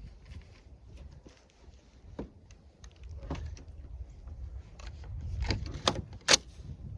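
Low wind rumble on the microphone with scattered clicks and knocks of handling, the two sharpest near the end.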